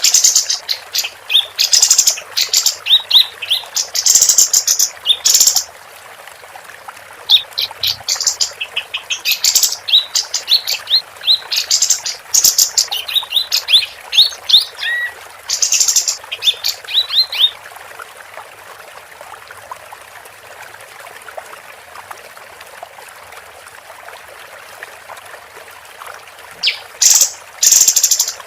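Female kapas tembak songbird singing in rapid runs of sharp, high chirps and short whistles, broken into bursts. It falls silent for about nine seconds in the second half, then starts again near the end.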